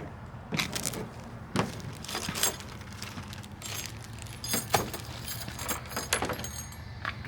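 Small hard parts being handled, clinking, rattling and knocking in irregular bursts over a steady low hum, the sharpest knock a little before the five-second mark.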